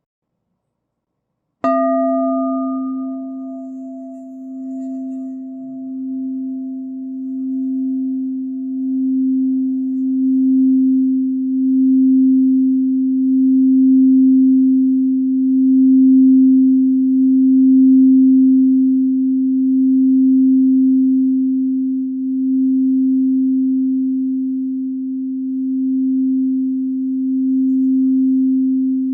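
A singing bowl, the root chakra bowl, is struck once and then kept singing: its low steady tone, near middle C, swells and fades in slow waves and grows louder. The brighter ring of the strike dies away within a few seconds.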